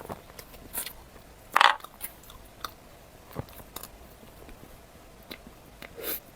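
Close-miked eating: a few crisp bites and chewing, with the loudest crunch about one and a half seconds in and scattered smaller crackles after it.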